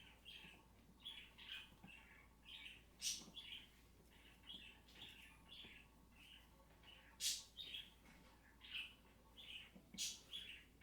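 A bird chirping over and over in short chirps, about two a second, with three sharp clicks or taps among them.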